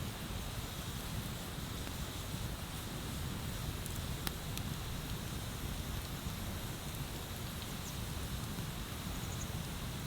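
Wood bonfire burning, with scattered sharp crackles over a steady rushing noise; one louder pop comes about four seconds in.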